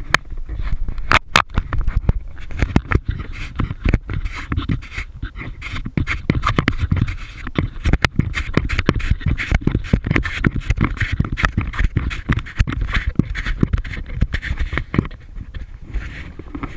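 Water splashing and lapping around a kayak, with many small irregular knocks and a steady rumble of wind on the action-camera microphone.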